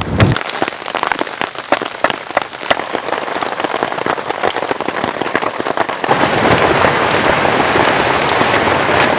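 Heavy rain, with many sharp drops tapping on a surface. About six seconds in it changes to a denser, steadier rush of rain.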